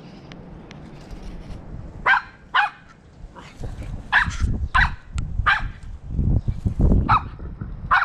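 American Eskimo dog barking, a run of short sharp barks that starts about two seconds in and comes roughly every half second to second.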